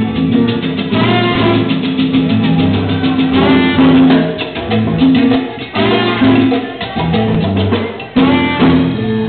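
Salsa band playing an instrumental passage: brass section phrases over a moving bass line and steady Latin percussion.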